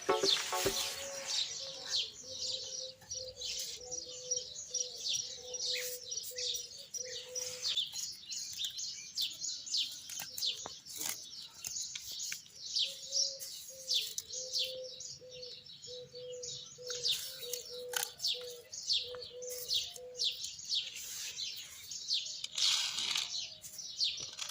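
Many small birds chirping together: a dense, overlapping run of short falling chirps throughout. A low, steady note repeats in two long stretches underneath.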